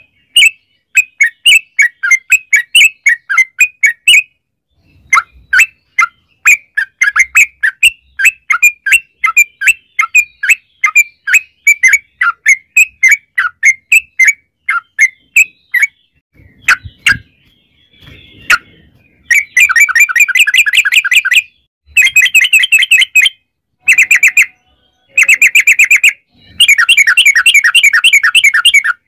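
Trucukan (yellow-vented bulbul) calling in long, rapid runs of short chirps, the fast 'ropel' rattle used as a lure call, broken by brief pauses. The runs grow denser and longer in the second half, with a couple of sharp clicks between them.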